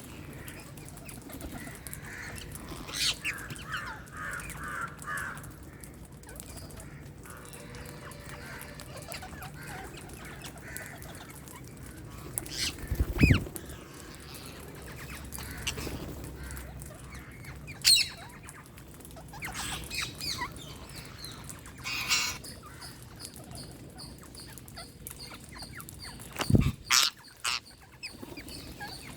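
Wild parrots giving short, scattered squawks and chirps, with a quick run of calls a few seconds in. There are two loud low thumps, one about halfway through and one near the end, and a faint steady high tone joins in the second half.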